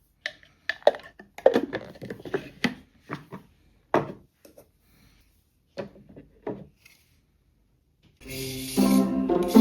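Scattered light knocks, taps and rubbing of objects being handled, close up. Soft piano music starts about eight seconds in.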